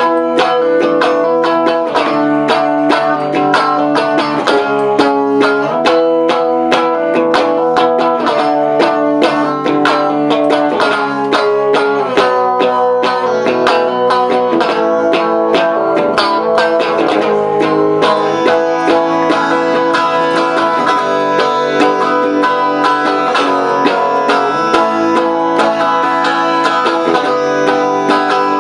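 Guitar playing an instrumental passage with no singing, in quick, even picked or strummed strokes.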